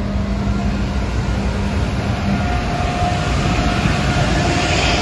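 Amtrak Acela Express electric power car pulling out and moving past close by. A low steady hum gives way about halfway to a higher steady whine, with a hiss building near the end as the power car's side goes by.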